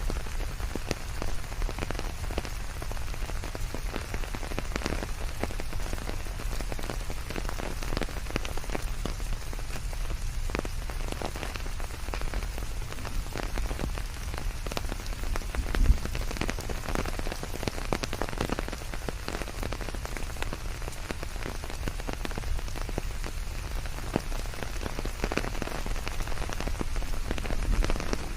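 Steady rain falling on leaves, a dense even hiss with many individual drops ticking through it, over a low rumble. One heavier drop or thud stands out about halfway through.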